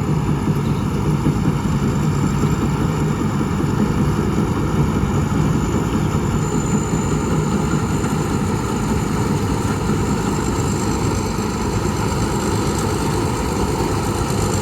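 Combine harvester engine running steadily while harvesting rice.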